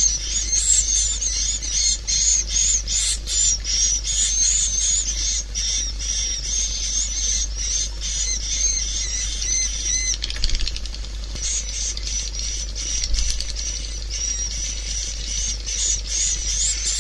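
Swiftlet calls as a lure recording: dense, rapid high-pitched chirping and twittering without a break, over a steady low hum. This is the call sound played through tweeters to draw swiftlets to a swiftlet house.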